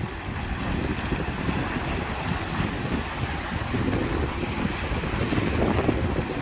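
Sea waves washing, with wind buffeting the microphone in an uneven low rumble.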